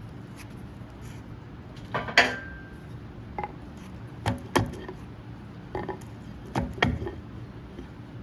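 Metal tools and hydraulic cylinder parts clinking and knocking against each other on a work surface: about six sharp strikes in the middle of the stretch, one ringing briefly, over a steady low hum.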